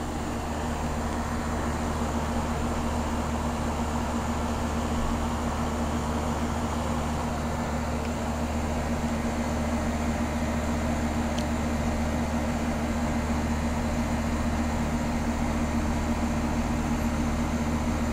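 Trane outdoor heat pump unit running: a steady compressor hum under the even rush of the condenser fan.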